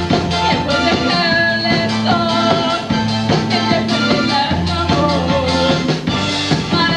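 Rock band playing live with a steady beat.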